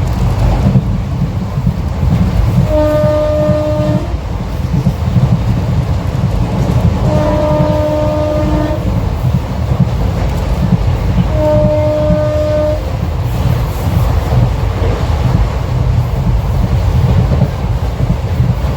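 Train running with a steady low rumble of wheels on the track, while the locomotive horn sounds three long blasts about four seconds apart, each a steady chord.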